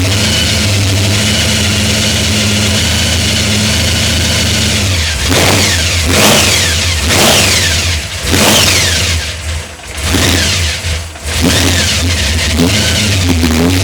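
Supercharged 461-cubic-inch big-block Chevy V8 with an 8-71 blower idling steadily, then revved in a string of about six quick throttle blips from about five seconds in, each rising and falling back, before settling to idle near the end.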